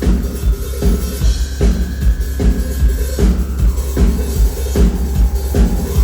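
Loud amplified live band playing an instrumental passage, with a steady heavy drum beat about every 0.8 seconds over deep bass.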